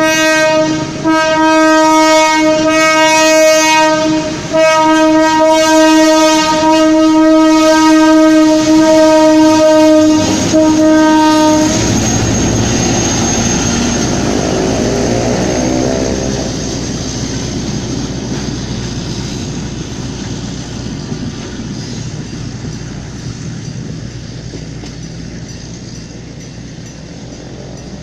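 Passenger train's horn sounding one steady note, held for about twelve seconds with a few brief breaks. The horn then stops, and the train's running noise and wheels on the rails fade away as it pulls out.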